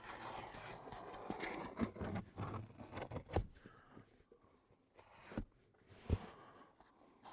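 Utility knife cutting through styrofoam board: a scratchy scraping for about three and a half seconds, then a few sharp clicks and knocks as the board is handled.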